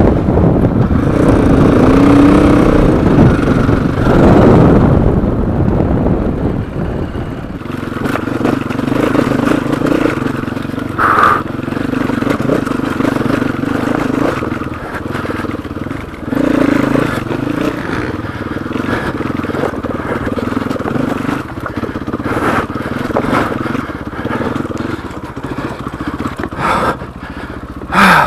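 Off-road rally motorcycle riding over rough desert track, its engine revving up and down through the gears. It is heard amid rushing wind and scattered knocks and rattles from the terrain. The wind is heaviest in the first few seconds.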